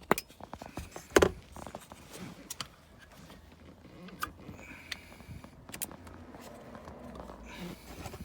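Spark plug wire boots being pulled off a distributor cap by hand: a series of sharp plastic clicks and light scraping, the loudest click about a second in.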